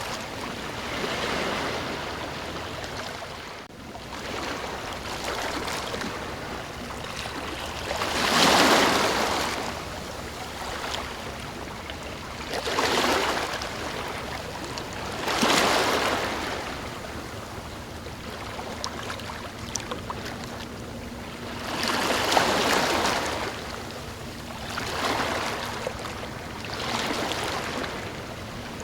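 Ocean waves breaking and washing in, the surf swelling and falling back every few seconds, with several louder breakers along the way.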